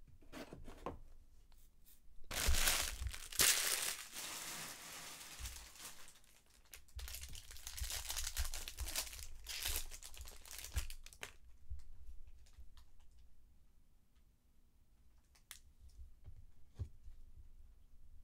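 Foil trading-card pack wrapper being torn open and crinkled, in two loud crackling spells about two seconds in and about seven seconds in, with quieter rustling and handling of cards between.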